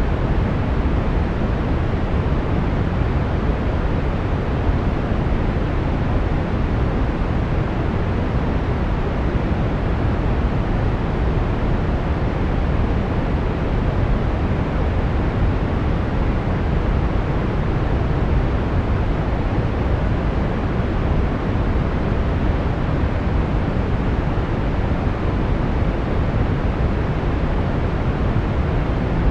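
Brown noise: a steady, unchanging deep rushing hiss, strongest in the bass and dull at the top.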